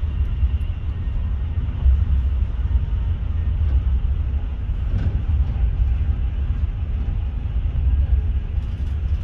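A Class 43 HST (InterCity 125) train running along the line: a steady low rumble of wheels on rails and carriage noise.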